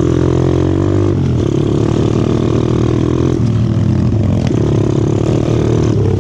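125cc four-stroke pit bike engine running under way, its pitch holding fairly steady and easing off and picking up a few times.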